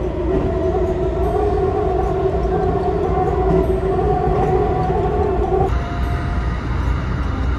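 JR West 225 series electric train running at speed: a steady rumble of wheels on rail under a steady two-tone whine from the drive. The whine drops away suddenly near six seconds, leaving the rumble.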